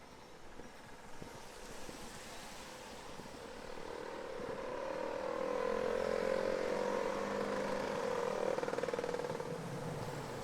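A passing vehicle: its engine hum and road noise build over several seconds, are loudest in the middle, then fade away.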